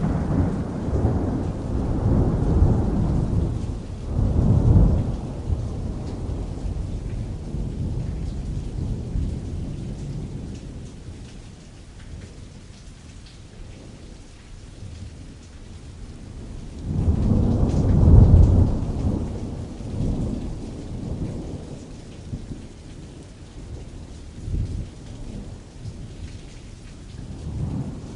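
Steady rain pattering on canvas with distant rolling thunder: a long rumble through the first few seconds that swells about four to five seconds in, a stronger peal about seventeen seconds in, then smaller rumbles, with another building near the end. The thunder has a soft added reverb.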